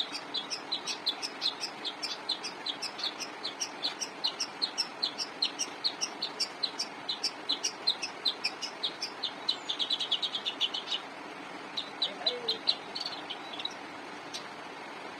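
Long-tailed shrike (pentet) singing: a fast, continuous run of short, sharp high chirps, about four or five a second, broken about two-thirds through by a quick rattling trill, then a brief pause and a few scattered notes near the end.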